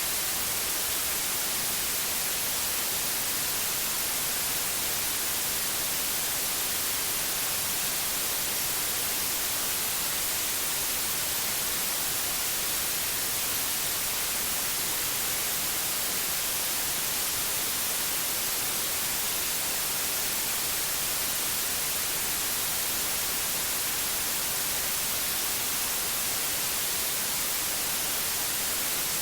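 Steady synthetic white noise: an even hiss that does not change, brightest in the high treble.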